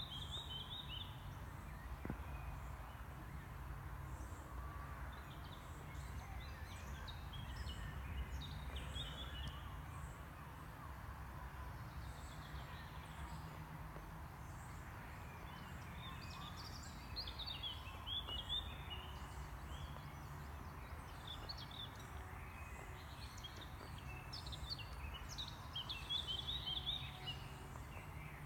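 Songbirds singing in woodland, in several scattered bursts of short chirps and warbles, over a steady low rumble.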